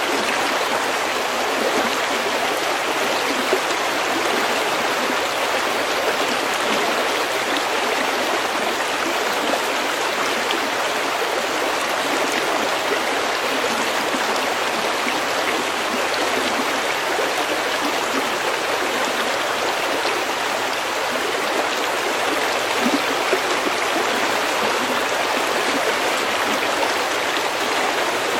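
A stream of snowmelt water flowing and babbling over pebbles, a steady rushing and gurgling.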